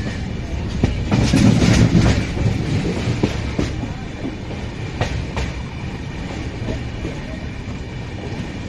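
Passenger express train rolling along the platform track, its wheels clacking over rail joints. The rumble and clacks are heaviest between one and two seconds in, then ease off gradually.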